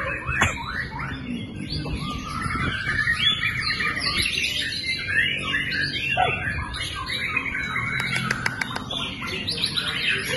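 White-rumped shama (murai batu) singing a fast, varied, continuous song of whistles and chirps, with a quick run of sharp clicks about eight seconds in.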